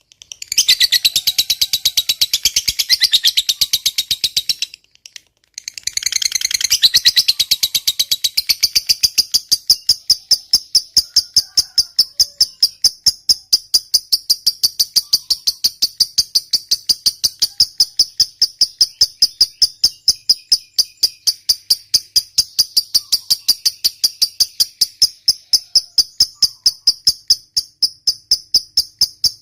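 Lovebird singing 'ngekek', the long chattering song: a fast, unbroken run of sharp repeated high notes. It stops briefly about five seconds in, then resumes and runs on steadily at an even pitch.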